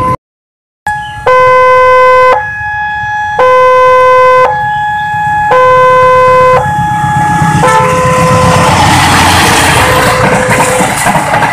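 A loud electronic two-tone warning signal alternates between a lower and a higher tone, each held about a second. From about eight seconds in, a passing train's rumble drowns it out, though the tones still sound faintly underneath.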